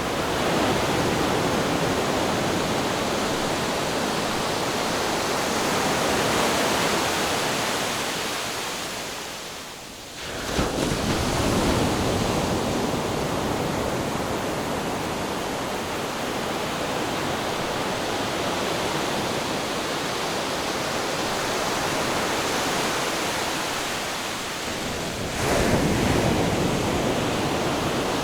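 Ocean surf washing steadily, fading briefly about ten seconds in before surging back suddenly, with another sudden swell near the end.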